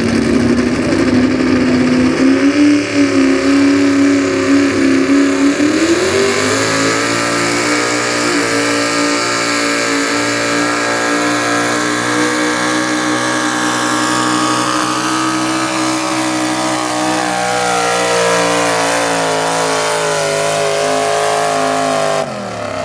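Super stock two-wheel-drive pulling truck's engine held at high revs under load down the track. The revs climb in steps early on, then hold nearly steady and sag slightly. Near the end the revs fall sharply as the throttle comes off, marking the end of the pull.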